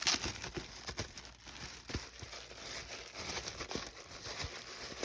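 Paper rustling and crinkling as old paper doll books are handled, with scattered small crackles and taps.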